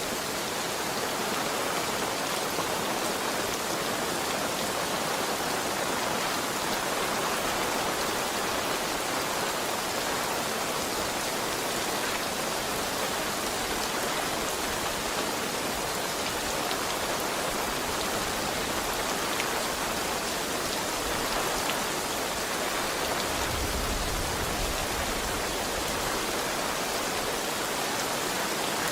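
Heavy rain falling steadily in an even, unbroken hiss. A low rumble joins underneath about four-fifths of the way in.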